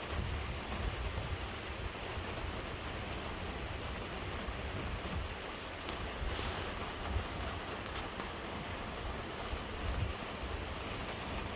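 Heavy downpour of rain pouring steadily, with uneven low rumbling underneath.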